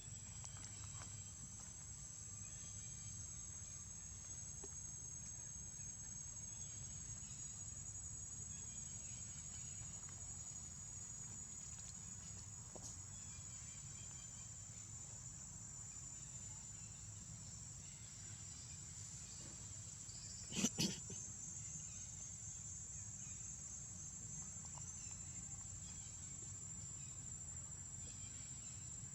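Insects trilling steadily at one high pitch over a low rumble. A sharp double knock sounds about two-thirds of the way through.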